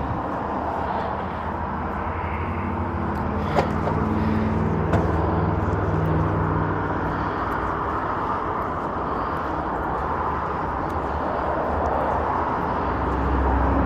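Steady engine-like drone with a low hum and a noisy wash, broken by two short clicks a second and a half apart.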